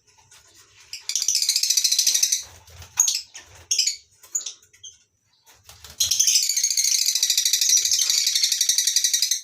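Lovebirds in a colony aviary chattering: two long spells of dense, shrill, rapidly pulsing chatter, the second starting suddenly about six seconds in, with scattered short chirps between them.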